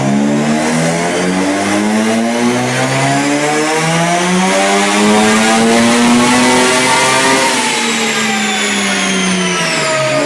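Turbocharged engine under load, its pitch climbing steadily for about seven seconds, then falling away as it backs off, with a high turbo whine that drops sharply near the end.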